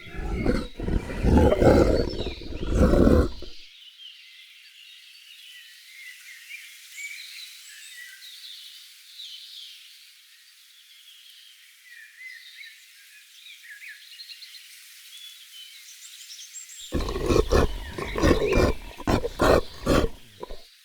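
A big cat roaring in a run of rough, deep strokes for the first three seconds or so, then again from about seventeen seconds in. Between the roars, birds chirp faintly.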